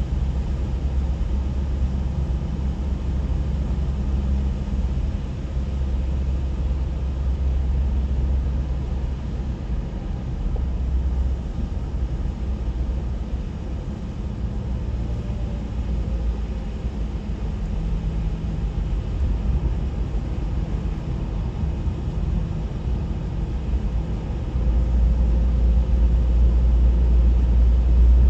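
Steady low rumble of a road vehicle on the move, growing louder near the end.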